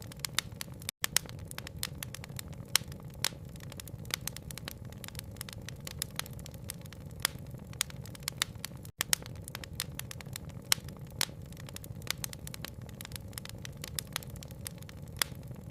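Wood fire crackling, with many sharp irregular pops over a low steady rumble. The sound cuts out for an instant about a second in and again near nine seconds.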